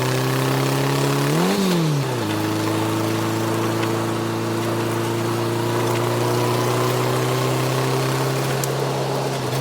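An engine running steadily, with one short rev up and back down about a second and a half in.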